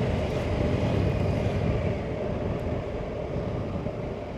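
Triumph motorcycle running steadily at road speed, its engine note mixed with wind rush over the onboard microphone.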